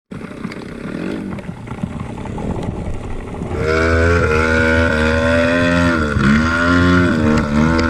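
Trail motorcycle engine running, then about three and a half seconds in it gets louder and higher, held at revs with its pitch dipping and rising again.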